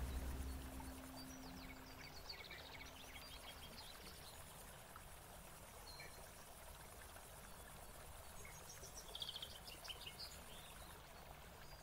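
Faint outdoor nature ambience: small birds chirping in two short runs, about a second in and again near the end, over a steady high hiss.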